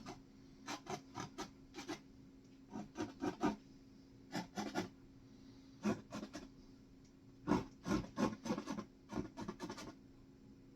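Paintbrush scratching short, quick strokes of paint onto the painting surface, in bursts of several strokes with pauses between them.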